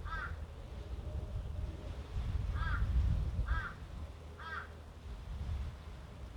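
A bird's short harsh calls, one near the start and then three in a row about a second apart, over gusty wind rumbling on the microphone.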